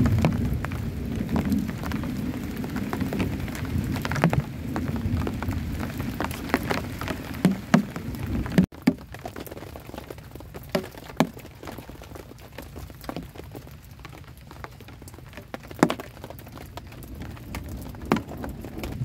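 Heavy rain falling, with single large drops striking close by. About nine seconds in the sound cuts abruptly to softer rain with scattered, distinct drips.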